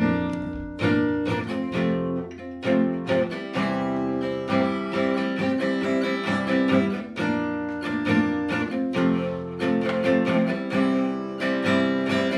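Acoustic guitar playing an instrumental song introduction, plucked and strummed chords.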